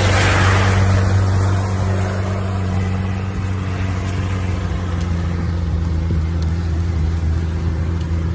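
Off-road vehicle's engine running steadily while driving, a low even drone. A hiss sits over it at first and fades away within about two seconds.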